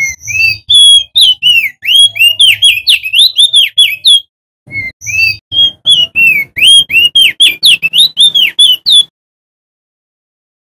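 Male opior jambul (crested white-eye) singing loudly: two long phrases of rapid whistled notes, each note a quick rising or falling sweep, the first ending after about four seconds and the second after about nine, followed by a pause.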